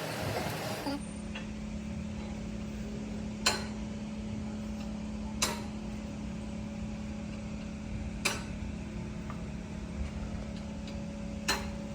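Four sharp metallic knocks a few seconds apart over a steady hum: metal parts being struck or set down in a workshop.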